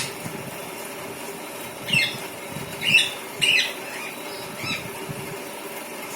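Pet parrot giving four short, high calls, the first about two seconds in and the last near the five-second mark.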